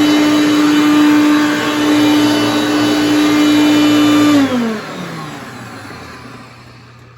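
Hoover Concept One upright vacuum cleaner running with a steady motor whine, carrying a noise like bad bearings that the owner puts down to the headlight lens. About four seconds in it is switched off and the motor winds down, its pitch falling as it fades.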